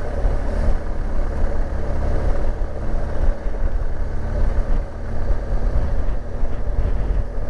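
BMW R1200GS boxer-twin motorcycle engine running steadily, heard through the rider's helmet microphone with a deep rumble.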